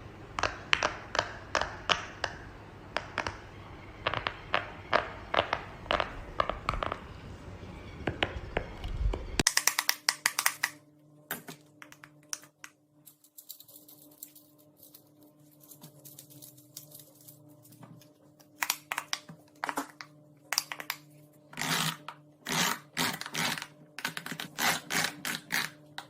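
Silicone fidget pop-it toy bubbles being pressed and popped, a long series of short soft pops. The pops come in a quick, even run at first, then after about nine and a half seconds over a quieter background in irregular clusters.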